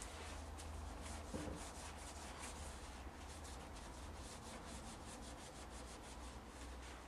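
Hand rubbing and scrubbing on a motorcycle engine casing during cleaning, a quick run of short strokes, about three a second.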